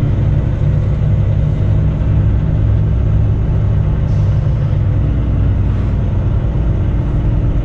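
Semi truck's diesel engine running at low speed, a steady low rumble.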